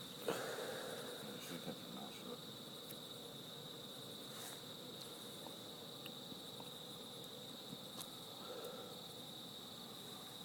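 Crickets trilling steadily at night: one continuous high-pitched tone.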